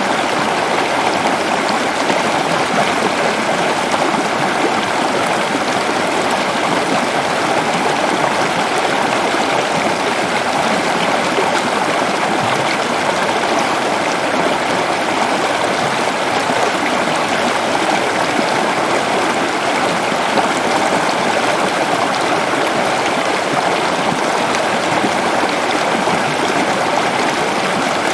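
Forest waterfall: falling and rushing water making a steady, unbroken noise.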